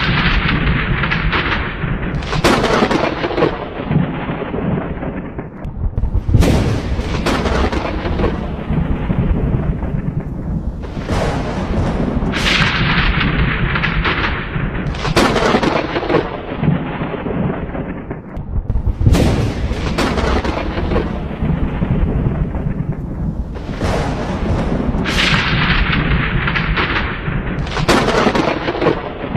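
Thunderstorm: thunder breaking again every few seconds, each sudden crack trailing off into a rumble, over a continuous low rumble and steady rain.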